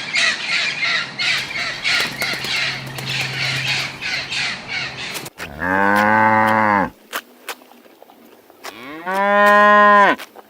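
Cow mooing twice, two long calls each rising and falling in pitch, the second a little higher. Before them, about five seconds of rapid raspy chattering calls.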